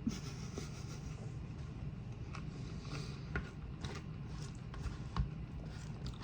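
Quiet eating sounds: faint chewing with a few small clicks and scrapes, over a low steady room hum.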